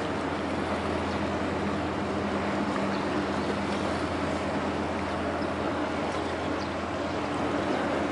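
A large passenger ferry's engines droning steadily as it passes, a constant low hum with several steady tones, over a noisy wash of water and wind.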